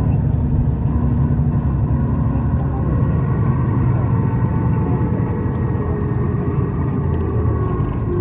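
Isuzu Erga city bus's diesel drivetrain under way, heard from inside the cabin: a steady low rumble with a faint whine above it that drops in pitch near the end as the bus slows.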